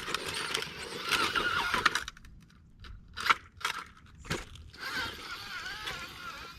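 Shaft-driven RC rock crawler's electric motor and gears whining, rising and falling in pitch as the throttle changes. The whine stops briefly partway through, and a few sharp clicks and crunches follow before it picks up again.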